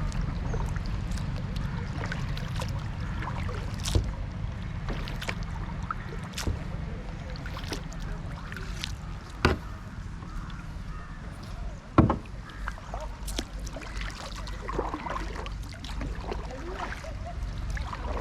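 Kayak paddling on a river: water splashing and swishing around the boat over a steady low rumble, with a few sharp knocks, the loudest about twelve seconds in.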